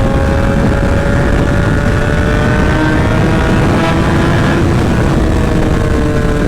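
Sportbike engine with a short aftermarket SC Project exhaust, running at steady high revs in one gear, its pitch climbing slowly as the bike accelerates. A heavy rush of wind and road noise lies under the engine.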